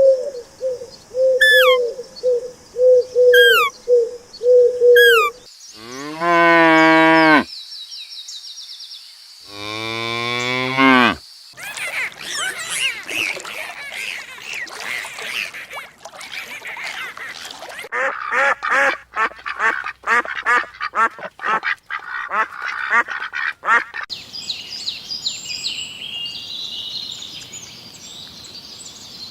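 A sequence of farm-animal calls, one recording after another: a run of short repeated calls, then two long drawn-out calls, then a noisy flock of many overlapping calls, and finally higher chirping.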